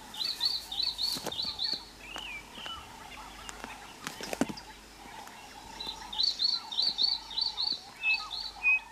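A bird calling a quick run of repeated high chirps, about six notes, near the start and again about six seconds in, over a faint steady hum and a few soft clicks.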